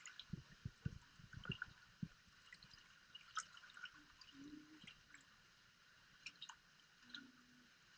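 Near silence with faint handling noise from marine caulking being applied to a boat fitting: small scattered clicks and a few soft low thumps in the first two seconds, then only sparse light ticks.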